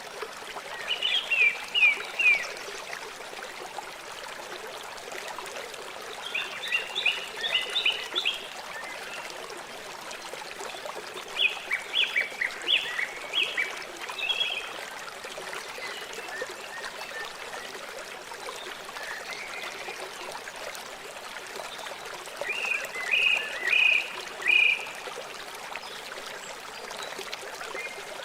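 A river flowing steadily, with a bird calling over it in four bursts of quick, short notes: about a second in, around six seconds, around twelve seconds, and near the end.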